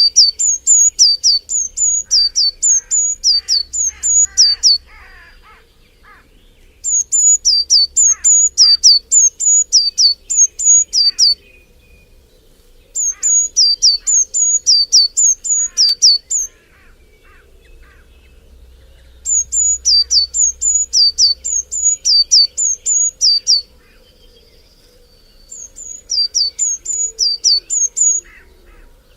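A bird singing five phrases of rapidly repeated high, down-slurred notes, about three a second, each phrase lasting four to five seconds with short pauses between. Fainter lower chirps from other birds sound beneath.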